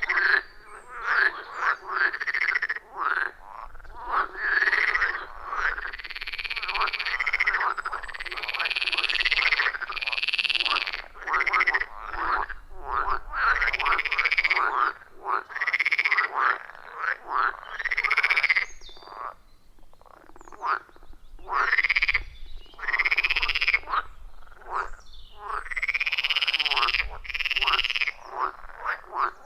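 A loud chorus of many frogs calling around a pond: short, overlapping croaking calls that each rise and fall in pitch, repeating on and on with brief lulls.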